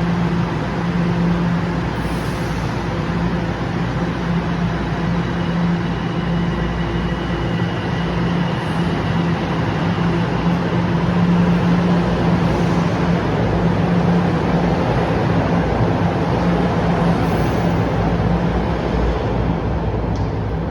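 TTC Line 1 subway train running, a steady loud rumble with a constant low hum.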